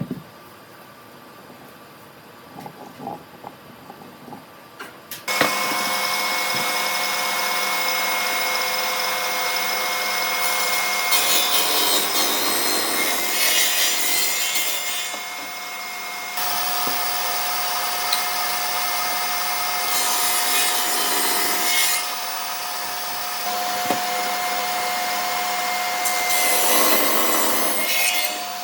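Handheld knocks for the first few seconds, then an electric power tool switches on and runs steadily with a whine. It grows louder and harsher in several stretches as it cuts into wood.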